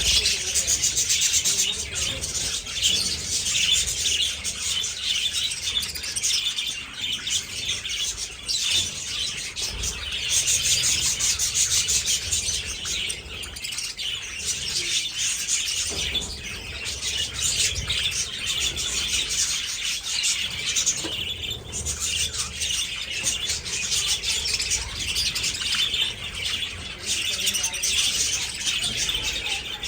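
A flock of budgies chattering and chirping continuously, many birds calling over one another without a break.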